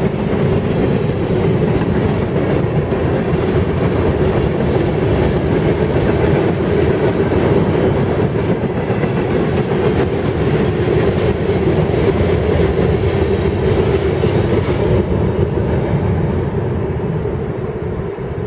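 Freight cars of a coal and manifest train rolling past, a steady rumble with clickety-clack of wheels over the rail, growing quieter near the end.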